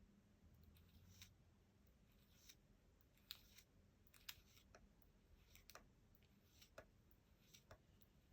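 Near silence with faint, irregular clicks, a dozen or so spread over several seconds.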